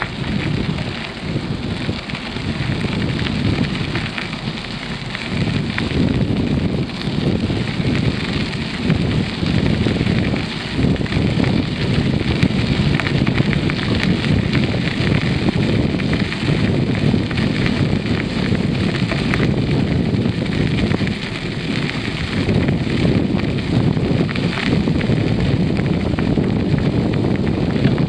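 Wind buffeting the microphone of a camera riding along on a moving bicycle: a loud, uneven rushing rumble that gusts up and down throughout.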